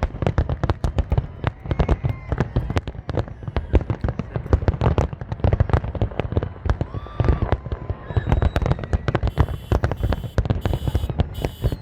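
Fireworks display in a dense, rapid barrage: many booming bursts and crackles a second with no pause.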